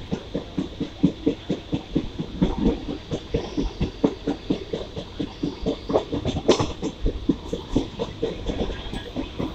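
Mumbai suburban electric local train running at speed, heard from on board: its wheels clatter quickly and unevenly over the rail joints, with a louder metallic clank about six and a half seconds in.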